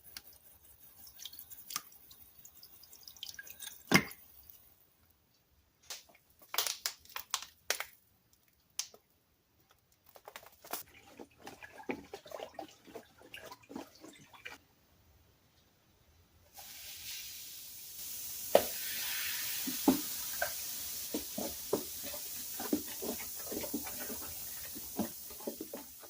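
Scattered knocks and clatter of containers being handled. About 16 seconds in, a steady rush of running water starts, with knocks and clinks through it, as a container is filled for a citric acid rust-removal bath.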